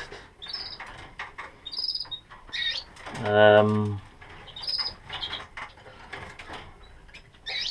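Canaries giving short, high chirps several times, with light clicks and rattles of handling in the breeding cage. About three seconds in, a man's voice makes a brief, held sound lasting about a second.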